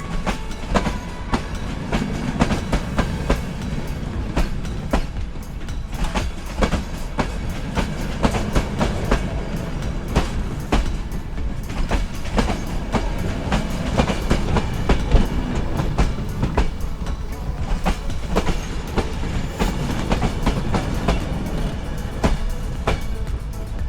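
Train running on the rails: a steady low rumble with irregular sharp clicks and knocks of the wheels passing over rail joints.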